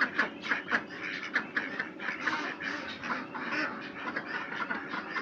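White crested ducks quacking, many short quacks in quick succession.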